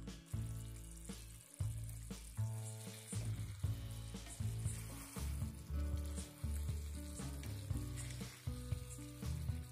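Pepper chicken masala sizzling in a pan while a slotted steel spatula stirs it, with scattered scrapes and clicks. Background music with a stepping bass line runs underneath.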